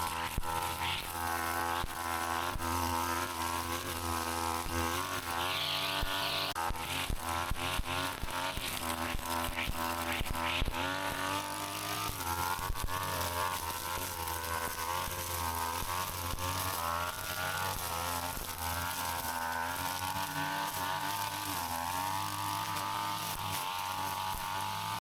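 Brush cutter's small engine running steadily, its pitch wavering a little as the load changes, with a run of sharp ticks from about five to eleven seconds in.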